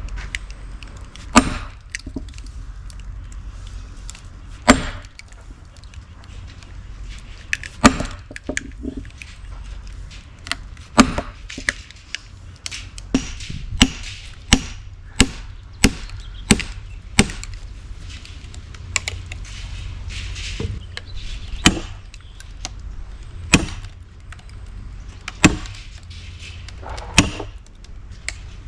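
Hand-splitting of oak firewood: repeated sharp chopping blows into oak rounds. The blows come a few seconds apart at first, then quicker, about one or two a second through the middle, then spread out again.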